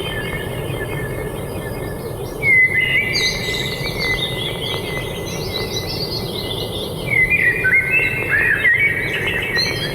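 Songbirds chirping in quick repeated twittering phrases, louder about two and a half seconds in and again from about seven seconds, over a steady low background rush.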